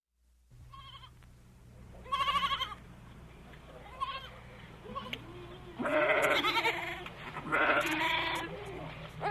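Livestock bleating: a loud quavering bleat about two seconds in, a few faint calls, then two long loud bleats near the end.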